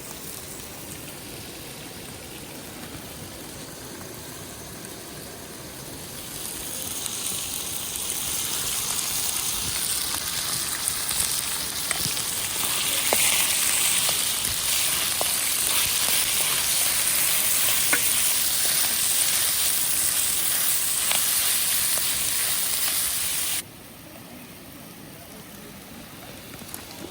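Food frying in a pan over a campfire: a high sizzling hiss with scattered pops that swells about six seconds in, then cuts off abruptly near the end.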